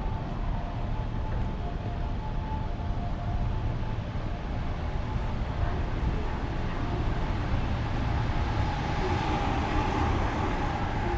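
Urban traffic noise: a steady rumble of passing vehicles, with a thin steady whine that grows louder near the end.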